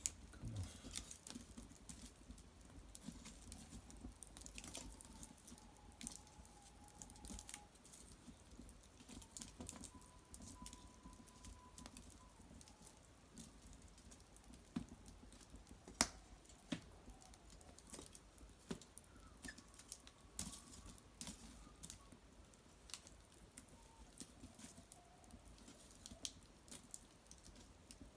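Cedar branches and bark burning in an open hearth fire, crackling with irregular sharp pops, the loudest about halfway through. Faint thin whistling tones come and go now and then.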